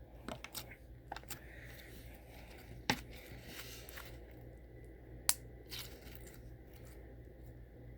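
Faint sticky crackling and squishing of slime being handled as it comes apart, with two sharp clicks, about three and five seconds in.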